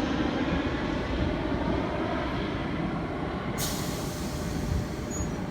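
Tangara electric train running on the track with a steady rumble. A sudden high hiss joins it about three and a half seconds in.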